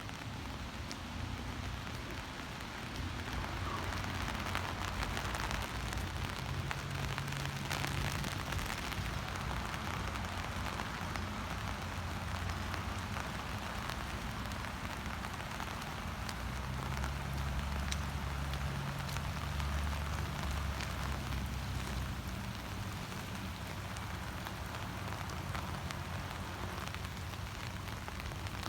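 Steady heavy rain, an even hiss throughout, with a low hum underneath that swells and fades at times.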